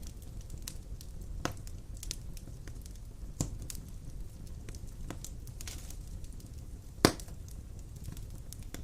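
Large wood logs burning in a stone fireplace: a steady low rumble of flames with scattered crackles and pops, one loud pop about seven seconds in.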